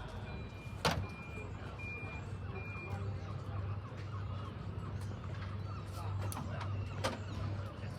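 Vehicle reversing alarm beeping with a single steady tone, about three beeps every two seconds, stopping about three seconds in, over a low engine rumble. Two sharp clicks or knocks come about a second in and near the end.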